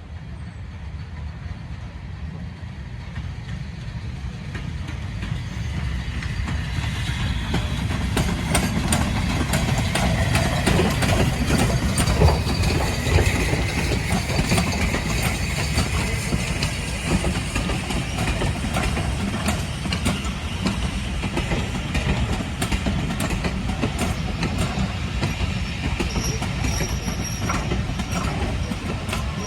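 A steam-gala train approaching and running past, growing louder over the first ten seconds or so, then a steady heavy rumble with the clicking of wheels over rail joints.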